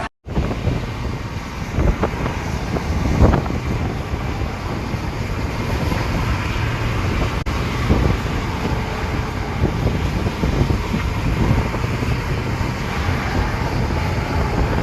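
Steady wind rumble on the microphone mixed with vehicle noise, with one sharp click about seven seconds in.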